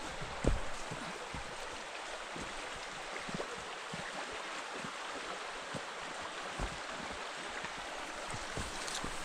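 Mountain stream rushing steadily over rocks, with scattered low thumps over it.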